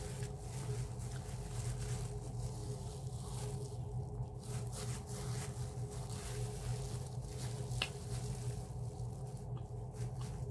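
Soft chewing and mouth sounds of a person eating rice and chicken by hand, with a few faint clicks and one sharper tick near the end, over a steady low hum.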